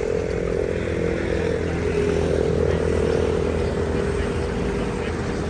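A motor or engine running steadily, with a broad rushing noise under it and a slight drift in pitch about two seconds in.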